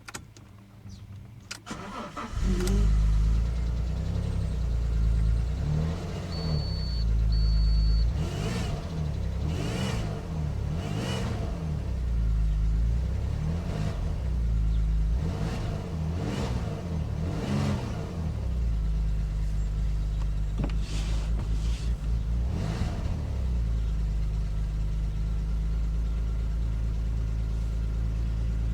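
A 3.2 V6 car engine cold-started below freezing: the starter cranks for about two seconds before the engine catches, then it is revved up and down repeatedly and settles into a steady idle. It carries the strange buzzing noise this engine makes on sub-zero starts, along with poor throttle response.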